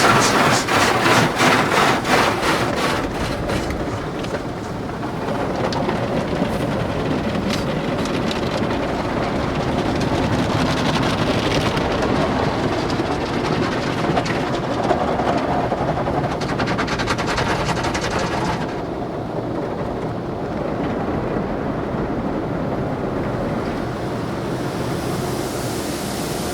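Automatic tunnel car wash heard from inside the car: cloth brushes slap rapidly against the body, about four strokes a second, for the first few seconds. Then a steady loud wash of spraying and scrubbing follows, and its hiss softens about two-thirds through.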